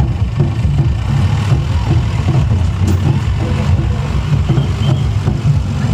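A vehicle engine running steadily with a deep, unbroken rumble.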